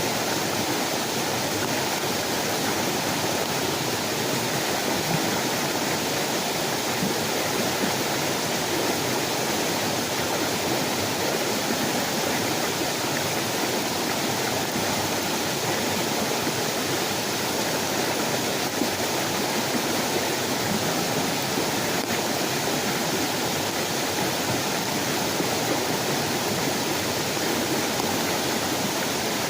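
Steady rushing of water, loud and even, with no break.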